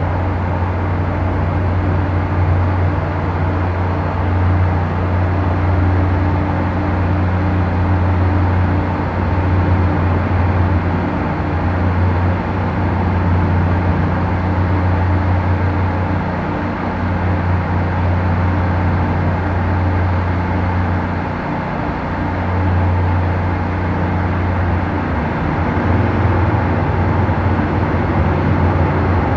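Boat engines running steadily, a low, even drone that eases briefly a couple of times.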